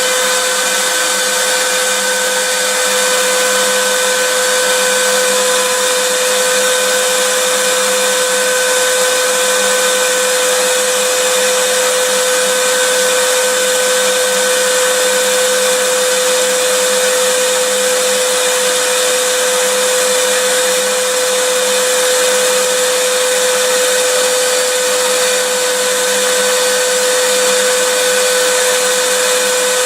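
Vacuum cleaner running steadily: an even rush of air with a constant motor whine, no change in pitch or level.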